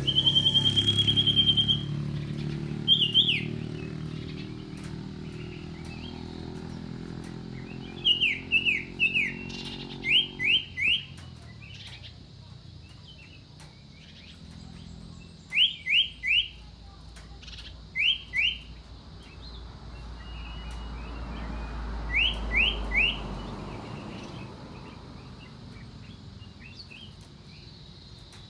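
Common iora calling: a long steady whistle at the start, then short bursts of two or three quick sliding whistled notes, repeated every few seconds.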